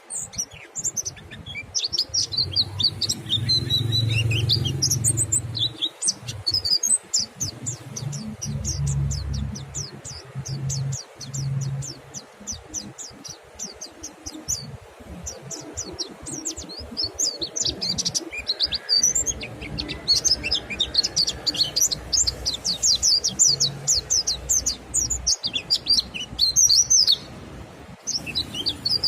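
Mountain white-eyes (pleci montanus) singing: rapid, high-pitched chirping and fast trilled runs of short notes, several birds answering one another, busiest in the second half. A low rumble runs underneath in the first half.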